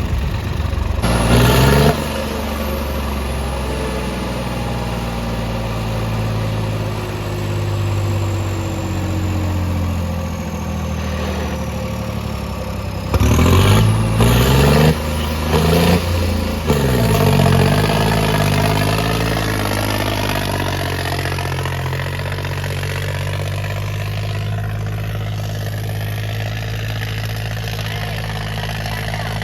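Swaraj 855 tractor's three-cylinder diesel engine idling, revved briefly about a second in and again in a series of sharp revs about halfway through, its pitch rising and falling before settling back to a steady idle.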